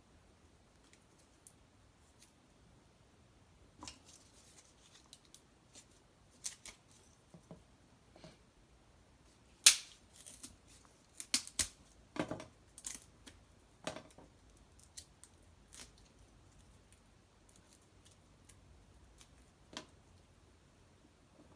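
Dry cedar sticks and bark crackling and snapping in irregular sharp pops. The loudest snap comes about ten seconds in, followed by a busier cluster of cracks.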